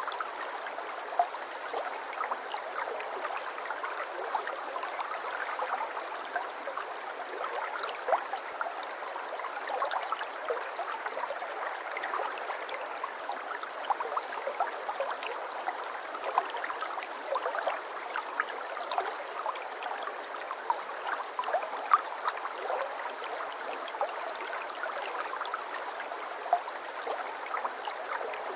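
Shallow stream babbling steadily, with water trickling and gurgling over stones and small splashes throughout.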